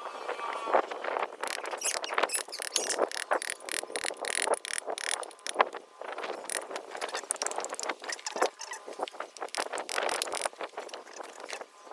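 Dense, irregular metallic clicking and knocking, some with a short ring: hand work on metal engine parts and tools.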